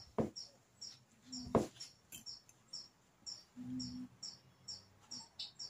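A bird chirping over and over in the background, a short high chirp about five times every two seconds. Two sharp clicks stand out as the loudest sounds, with a brief low hum twice.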